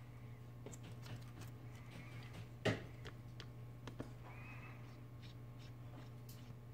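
Small clicks and taps of a T5 Torx screwdriver and tools on a phone's frame as tiny screws are taken out, with one sharper click about two and a half seconds in. A steady low hum runs underneath.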